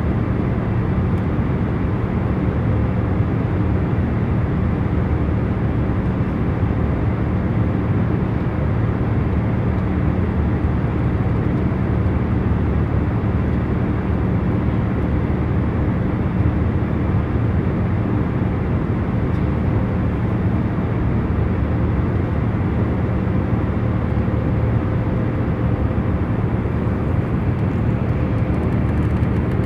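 Airliner cabin noise in cruise flight: a steady low rushing hum with a few faint constant tones under it, unchanging throughout.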